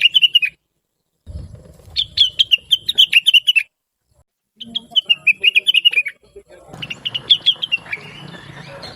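Rengganis (cucak wilis) leafbird singing in fast runs of sharp, high chirps, each phrase a second or two long, separated by short gaps of silence.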